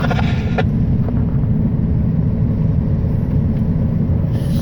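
Steady low rumble of a moving car heard from inside the cabin, road and engine noise, with a brief hiss near the end.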